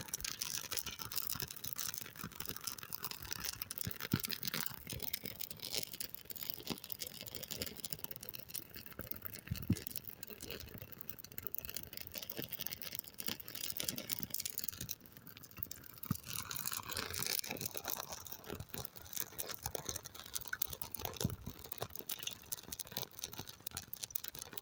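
A small piece of fire-lighting tinder burning, with a continuous fine crackling over a soft hiss.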